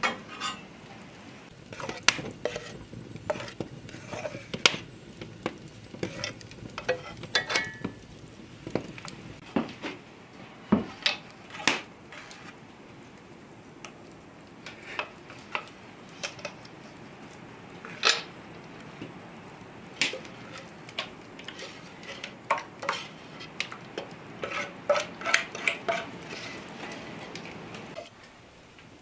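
Kitchen utensils clinking, scraping and knocking against pots and dishes at irregular intervals, over a steady low hiss that drops away near the end.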